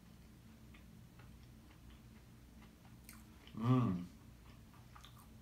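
A person chewing a bite of oyster-mushroom empanada, with faint mouth clicks, and a short hummed 'mm' from the eater about three and a half seconds in.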